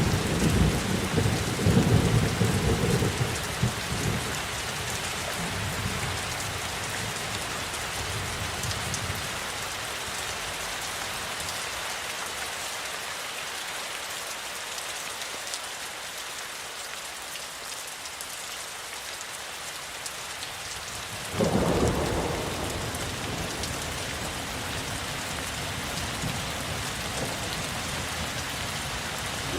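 Steady rain falling, with thunder rumbling over the first few seconds and dying away, then a sudden thunderclap about two-thirds of the way through that rolls off over a few seconds.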